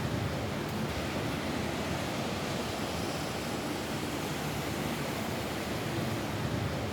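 Steady rain falling on a roof, an even hiss of dense drops with no separate hits standing out.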